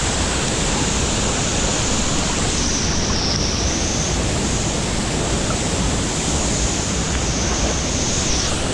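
Large waterfall running: a steady, loud rush of falling water, with wind from the spray buffeting the microphone.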